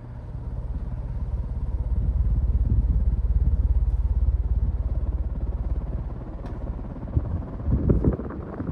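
1996 Hampton Bay Gazebo ceiling fan running on high speed with a slight motor hum, its breeze buffeting the microphone as a pulsing low rumble that swells in the middle. There are a couple of brief bumps near the end.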